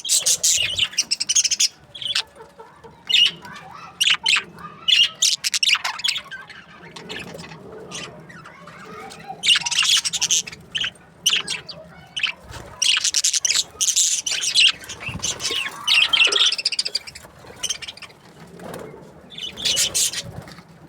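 Budgerigars chirping in irregular bursts of rapid, high chirps, with short lulls between the bursts.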